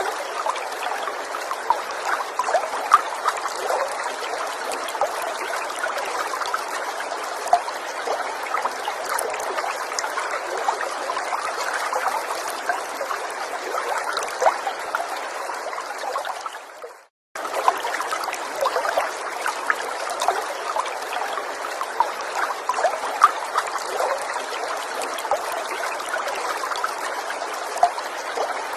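Small forest stream trickling steadily, with many small splashes over the running water. About two-thirds of the way through the sound fades and cuts out for a split second, then resumes.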